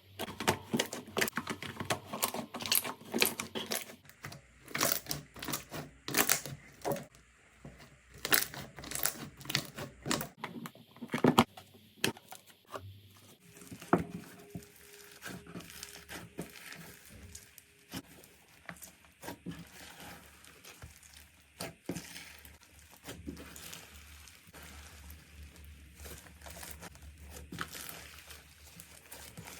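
Slime being squeezed and pressed by hand: a dense run of sharp pops and crackles for about the first thirteen seconds, then softer, quieter crackling and squishing.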